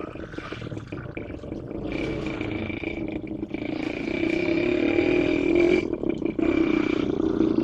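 GE Universal-series diesel-electric locomotive engine running: a steady low drone with a high steady whine over it, getting louder about halfway through.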